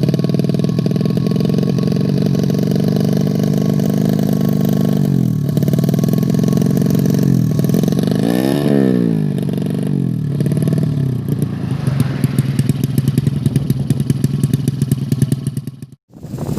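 A 115cc underbone drag bike engine running. It is blipped up and down in revs about halfway through, then runs with an uneven, pulsing beat before the sound breaks off abruptly near the end.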